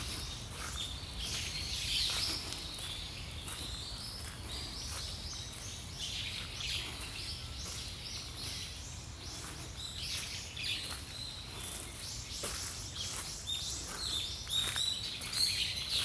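Several small birds chirping and calling, many short high chirps overlapping in quick succession, over a low steady rumble.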